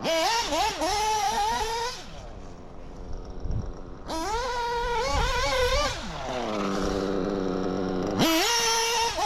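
Small nitro RC engine (Reds) running on new bearings, revving up in three bursts with a rising, wavering note and dropping back to a steady low idle between them.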